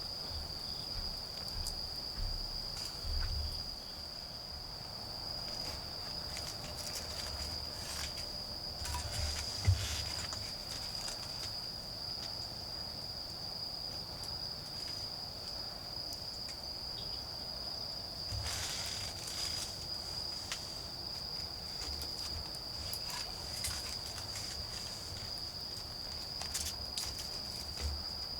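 Autumn crickets trilling steadily in one high continuous tone. Over it a wood fire crackles with scattered small snaps, with one sharp pop about ten seconds in and a brief rustle of handling near the twenty-second mark.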